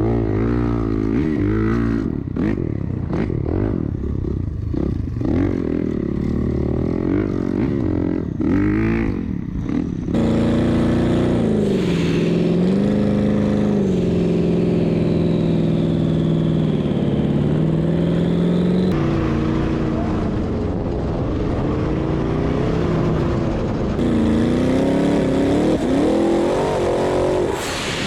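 Off-road vehicle engine revving up and down quickly for about ten seconds, then held at high revs with slow rises and falls, in several stretches joined with sudden cuts.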